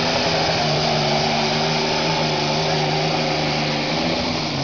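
Modified pulling tractor's engine running at full power under load as it drags the sled, a loud, steady drone holding an even pitch, dipping slightly near the end.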